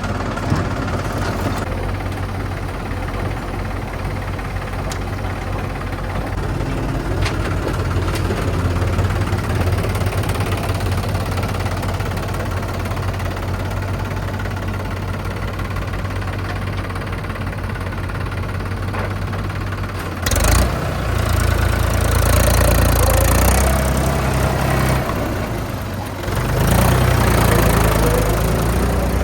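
Heavy diesel engine running steadily, then speeding up and getting louder twice: about twenty seconds in, and again near the end.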